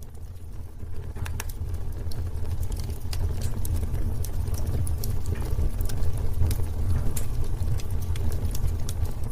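Wood fire burning in a fireplace: a steady low rumble of flame with frequent sharp crackles and pops from the burning wood, fading in over the first couple of seconds.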